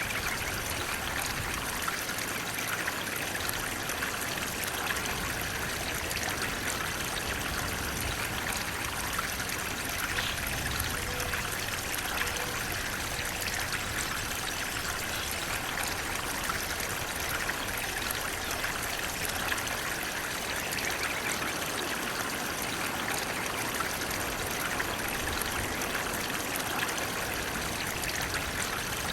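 Flowing water running steadily, an even, unbroken rush with no pauses or splashes.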